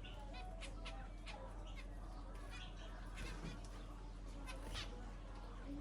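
Pet birds chirping in many short, sharp calls, some in quick runs, over a steady low hum.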